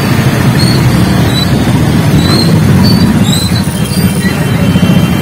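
Loud, steady rumble of wind buffeting the microphone while riding a motorcycle, with road and engine noise mixed in.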